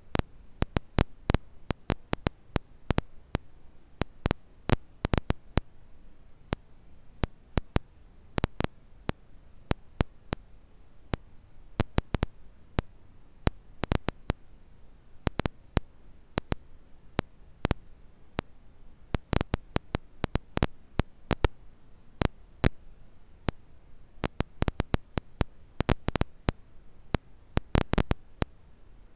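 Campfire crackling: irregular sharp pops and snaps, often several in quick succession, over a faint steady hiss.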